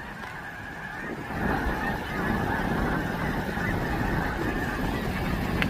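A large flock of snow geese calling in flight: a dense chorus of many overlapping honks that grows louder about a second in.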